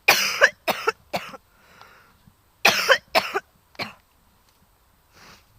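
A person sick with a cold coughing hard in two fits of about three coughs each, the second fit starting about two and a half seconds in.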